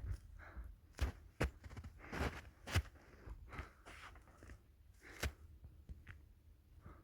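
Footsteps crunching through snow: irregular, uneven steps of people walking, with several firmer steps in the first three seconds and one more a little after five seconds.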